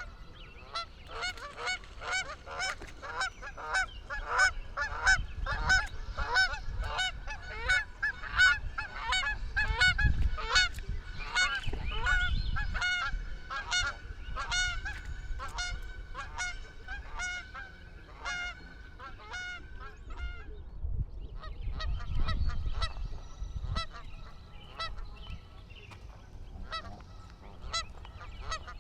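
A flock of geese honking, many short calls overlapping in quick succession. The calls stop briefly about two-thirds of the way through, then carry on more sparsely, with a few low rumbles beneath.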